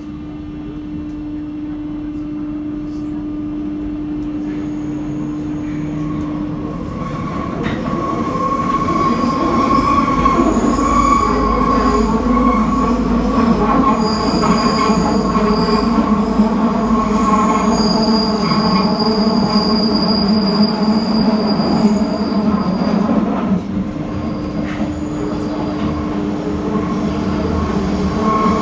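Paris Métro line 7 MF77 train heard from inside the car, running on steel rails through the tunnel and growing louder as it picks up speed. The wheels squeal in several high, sustained tones through the middle of the stretch, easing near the end as a steady hum returns.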